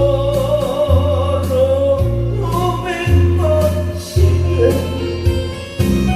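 Music: a song with a singer holding long notes with vibrato over an accompaniment with a bass note about every second.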